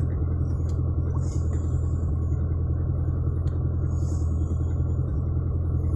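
Steady low rumble of a vehicle's engine, heard from inside the cabin.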